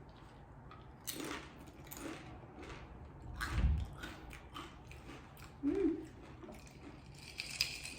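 A person crunching and chewing tortilla chips with salsa: irregular crisp crunches, with a louder dull thump about three and a half seconds in.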